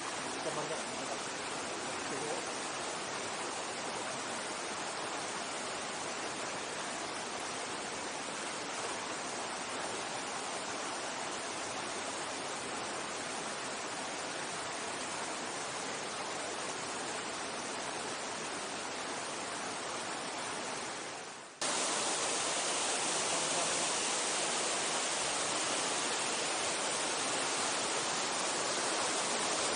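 Mountain stream water rushing steadily over rocks. About two-thirds of the way through, it cuts abruptly to a louder, brighter rush.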